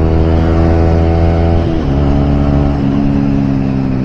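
Motorcycle engine running steadily under way. Its note drops in pitch about two seconds in and holds at the lower pitch.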